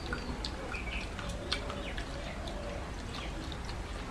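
Wet chewing and lip-smacking of people eating rice and curry by hand: a quick scatter of short, sharp clicks over a steady background.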